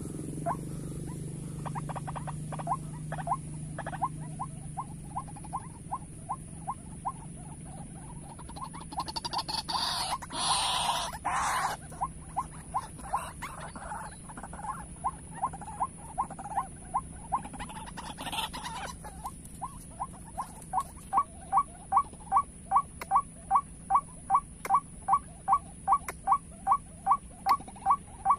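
White-breasted waterhen calling: one short note repeated over and over at about two a second, growing louder in the last third. A brief rustle breaks in around ten to twelve seconds in.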